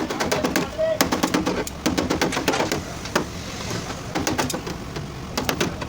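Hammer knocks on a car fender's sheet metal during dent repair: a fast run of sharp taps at the start, then single strikes every half-second to second.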